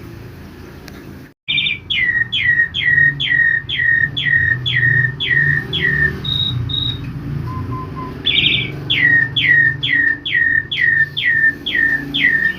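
Asian pied starling (jalak suren) singing: two runs of eight or nine repeated downslurred whistles, about two a second, each run opening with a short buzzy note and separated by a pause with a few short high notes. The song begins abruptly just over a second in, over a steady low background hum.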